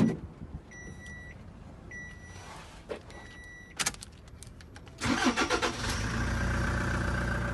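A thud, then three short warning beeps and a few clicks, after which the 2016 Toyota Hiace's 3-litre four-cylinder turbo diesel cranks and starts about five seconds in and settles into a steady idle.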